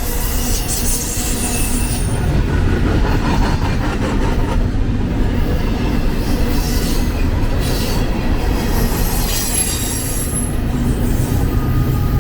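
BNSF intermodal freight train of JB Hunt container cars rolling past, a steady rumble of wheels on rail. Thin high wheel squeals rise over it about a second in and again near the ten-second mark.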